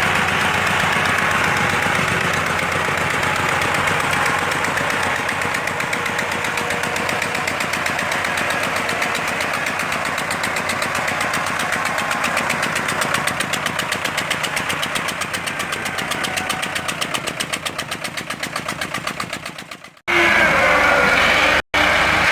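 Massey Ferguson 260 Turbo tractor's diesel engine running steadily while hauling a heavily loaded sugarcane trolley. Over the last third a rapid, even pulsing throb builds in the engine note, then the sound fades and cuts abruptly to a different, higher engine sound.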